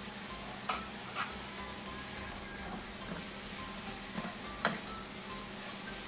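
Tomatoes and chilies sizzling in hot oil in a metal wok, with a metal spoon knocking and scraping against the pan a few times as they are stirred, the loudest knock about three-quarters through. Faint background music plays along.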